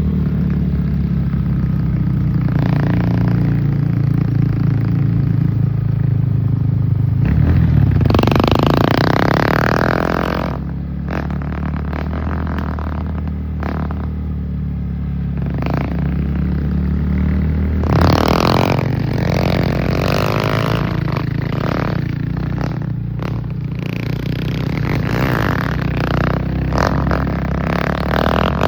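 Motorcycle engine running steadily during a ride, with louder noisy stretches about eight and eighteen seconds in.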